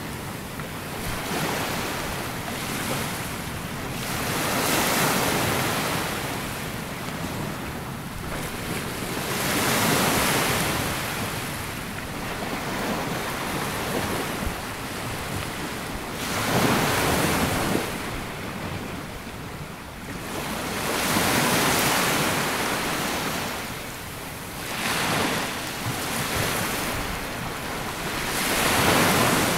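Small waves breaking and washing up a sandy beach, a hiss that swells and fades every few seconds, with some wind on the microphone.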